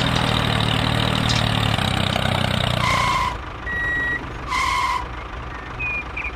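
Engine running steadily, cutting off about three seconds in, followed by three short electronic beeps.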